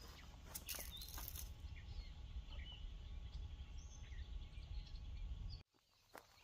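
Outdoor ambience: scattered short bird chirps over a steady low rumble, with a few clicks. Everything cuts off abruptly about five and a half seconds in.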